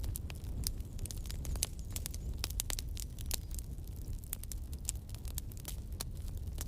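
Campfire burning, the wood giving frequent irregular sharp crackles and pops over a steady low rumble.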